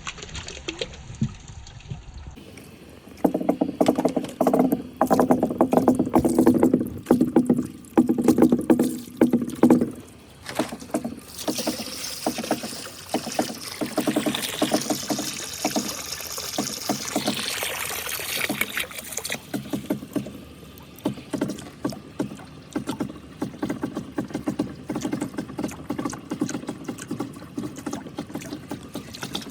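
Marbles rolling and clattering down a handmade marble run track in a dense run of clicks, with a rumbling roll in bursts. Rushing, splashing water comes in about eleven seconds in and lasts for several seconds.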